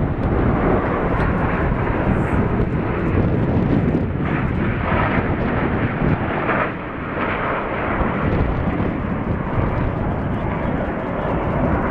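Loud, steady jet noise from Blue Angels F/A-18 Hornets in flight, with a brief dip about two-thirds of the way through.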